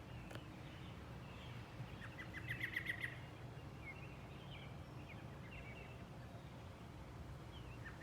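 Songbirds singing: a rapid trill of about eight quick repeated notes about two seconds in, among scattered short chirps and whistles, over a low steady rumble.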